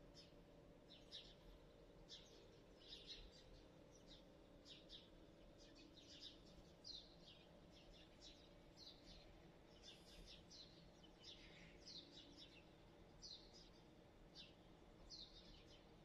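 Faint chirping of small birds, short high calls about one or two a second, over a steady low hum.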